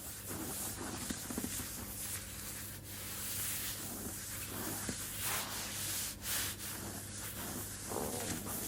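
Close-miked rubbing: hands stroking and sliding over oiled skin and fabric in irregular strokes, with a faint steady low hum underneath.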